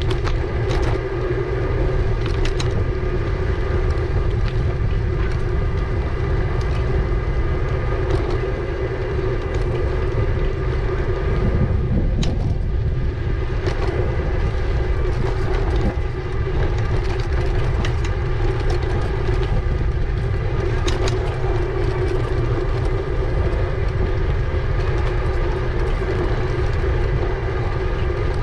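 Riding noise from an e-bike on a paved promenade: heavy wind rumble on the microphone and tyre noise, with a steady hum and scattered light clicks and knocks from the bike going over the surface.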